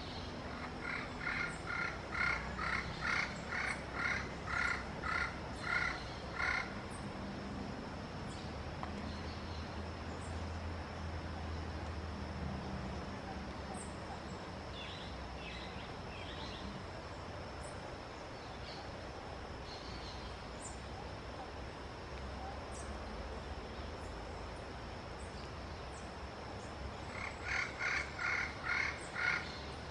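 Yellow-fronted parrot giving a run of short, evenly spaced calls, about two a second for several seconds, then a shorter run of the same calls near the end.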